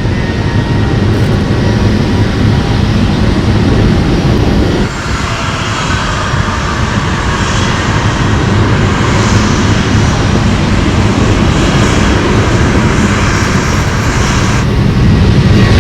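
Airliner engines running loud and close, a steady rumble with a brighter hiss joining in about five seconds in.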